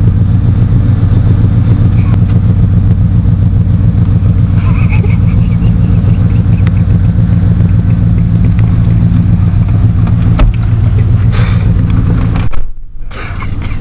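Vehicle engine idling steadily with a deep, even hum, cutting off abruptly near the end.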